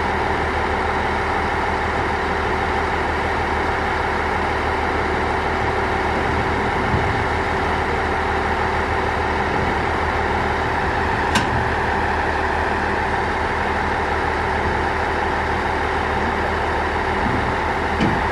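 Diesel railcar engine idling steadily, with a single sharp click about eleven seconds in and a soft knock near the end.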